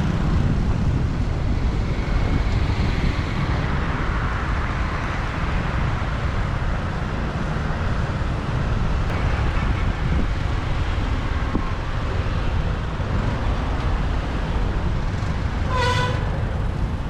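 City street traffic heard from a moving motorbike: steady engine and road noise, with a short horn toot near the end.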